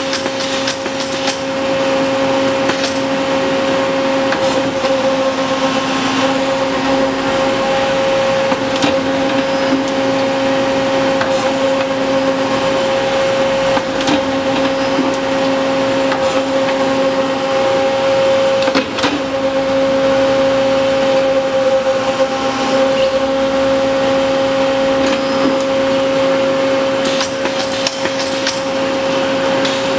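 Adaptive Motion EB-503SD CNC tube bender running, with a steady machine hum and whine over mechanical noise. Sharp clicks or knocks sound now and then, at the start, twice around the middle and several near the end.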